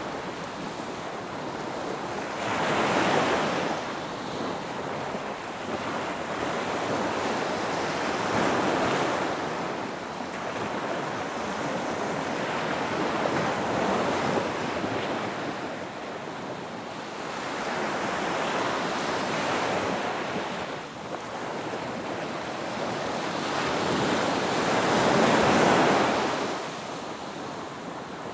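Ocean surf breaking on a beach: waves surge and wash back in a steady rhythm, about one every five to six seconds, five in all, the last the loudest.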